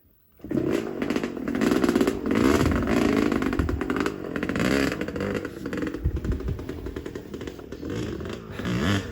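Motorcycle engine running and revving, its pitch rising and falling, starting abruptly about half a second in, with some clatter and scraping alongside.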